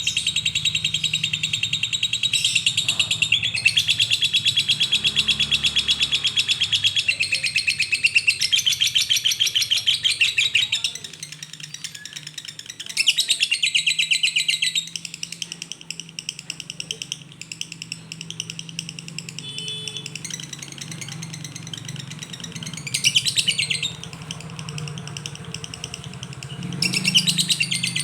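Lovebird chattering in long, very rapid runs of high chirps, the fast unbroken song that hobbyists call 'koslet'. It goes without a break for about the first eleven seconds, then comes in shorter bursts with quieter chatter between, over a steady low hum.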